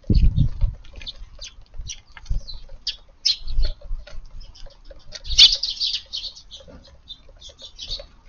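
A flock of Eurasian tree sparrows feeding, with scattered short high chirps and quick pecking taps at the food. The chirping is busiest a little past halfway. A few low thumps come at the start and again about three and a half seconds in.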